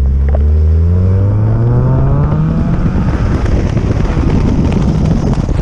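Mazda Miata inline-four engine breathing through a freshly fitted Roadster Sport aftermarket exhaust, accelerating hard. Its pitch climbs steadily for about two and a half seconds, then it stays loud and rough.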